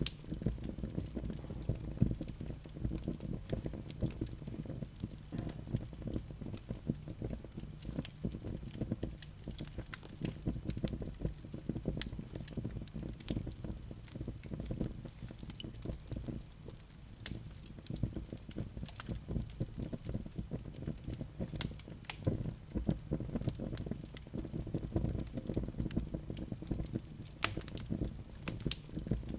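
Wood fire crackling in a fireplace: a steady low rumble of flames with many quick sharp pops and snaps of burning wood.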